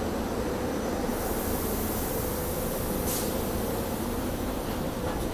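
SEPTA Silverliner IV electric regional rail train rolling slowly into the station: a steady rumble with a constant hum. About a second in a high hiss starts, with a brief sharper burst of hiss near the middle.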